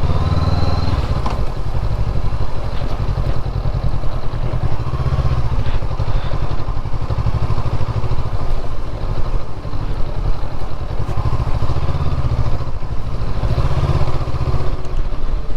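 Motorcycle engine running steadily at low speed, a low, even pulsing rumble.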